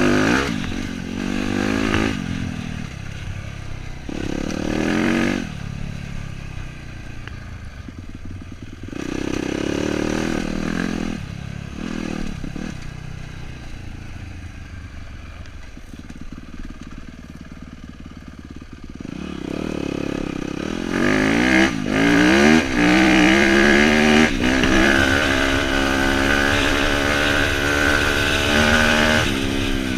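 Dirt bike engine being ridden, the revs rising and falling with the throttle. It drops to a low, quieter run in the middle, then revs up hard in several rising bursts for the last third.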